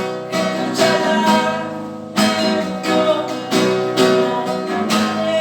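Acoustic guitar being strummed in an improvised piece: full chords struck every half second to a second, ringing on between strokes.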